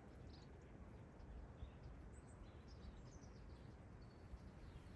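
Faint outdoor quiet with scattered, brief high chirps of small birds.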